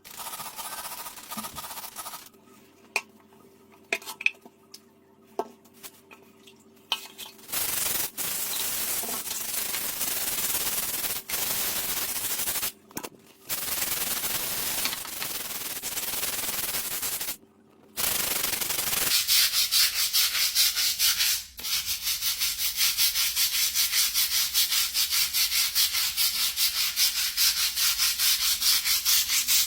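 Scrubbing: a few taps and clicks at first, then steady rubbing. Near the end it turns into quick, even back-and-forth strokes of about four a second.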